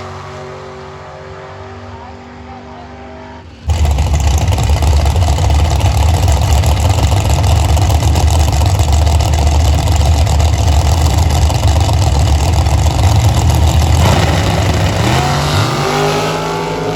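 Drag racing engines: a car idling, then suddenly a very loud full-throttle run lasting about ten seconds before it eases off. Near the end an engine revs up with rising pitch.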